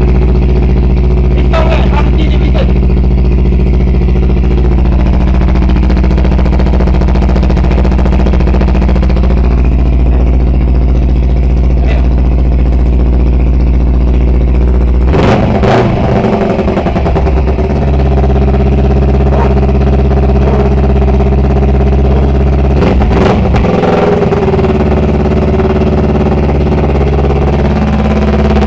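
Kawasaki Ninja 250R parallel-twin engine running with no muffler, loud and raw, idling steadily on its first start after a long lay-up. About halfway through it is blipped with the throttle, then again briefly later, before settling back to idle.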